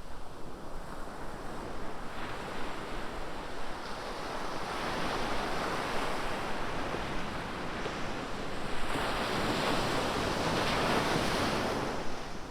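Ocean waves breaking on a beach: a rushing hiss that builds and washes in twice, once around the middle and again near the end, with some wind on the microphone.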